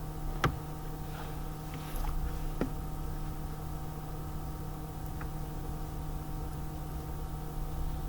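A steady low electrical hum with two sharp clicks, the first and loudest about half a second in, the second about two and a half seconds in.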